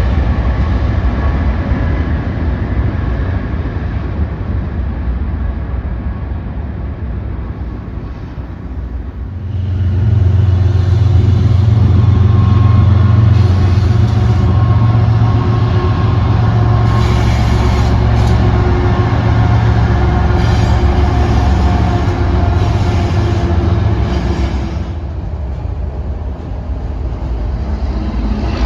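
BNSF freight train running past: diesel locomotive engines and the steady roll of freight cars on the rails, with a few steady tones over the rumble. It gets much louder about ten seconds in and eases off again about twenty-five seconds in.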